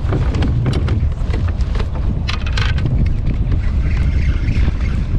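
Strong wind buffeting the microphone, a steady low rumble, with a few sharp clicks a little over two seconds in.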